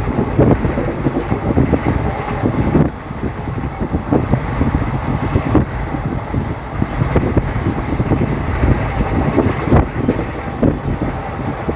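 Train running at speed, heard from on board: a steady rumble with frequent irregular clanks and rattles of wheels on rails, and wind buffeting the microphone.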